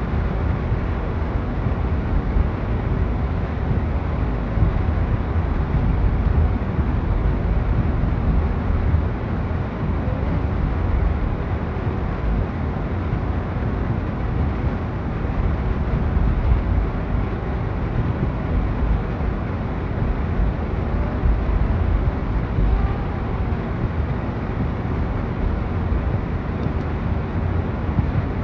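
Steady outdoor noise dominated by a low rumble of wind buffeting the microphone, with no distinct events.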